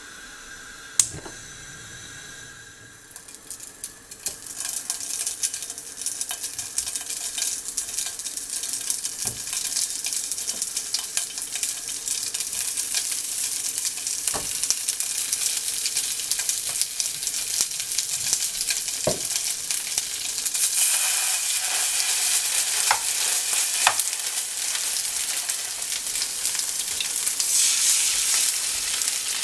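A single sharp click as the gas burner is lit, then slices of blood sausage and liver sausage sizzling in hot oil in a frying pan, with scattered small taps as pieces are set down. The sizzling grows louder near the end as a raw egg goes into the pan.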